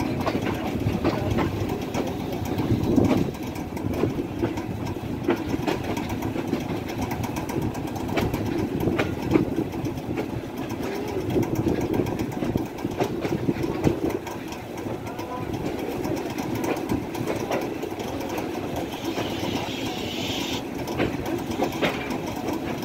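Passenger train running into a station yard, heard from inside a coach: a steady rumble of the running gear with frequent wheel clicks over rail joints and points.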